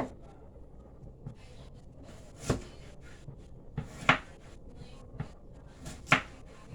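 Garlic and ginger being mashed with hard knocks on a kitchen surface. There are three loud strikes about two seconds apart, with lighter taps between them.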